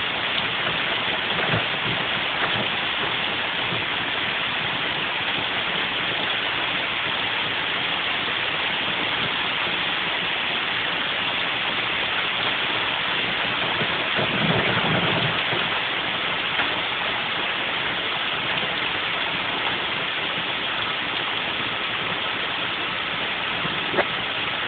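Heavy rain pouring steadily. A brief low rumble swells about fifteen seconds in, and there is a single sharp tick near the end.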